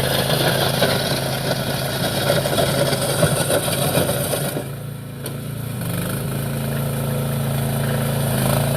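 13.5 hp Briggs & Stratton engine of a mini compact tracked loader running steadily. It dips in level about five seconds in, then builds back up to a steady run.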